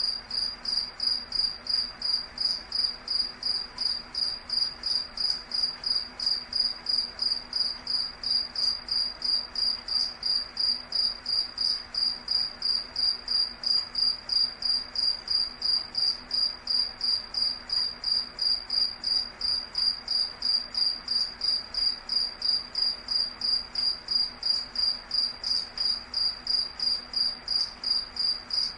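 A cricket chirping in a steady, even rhythm of about three high-pitched chirps a second.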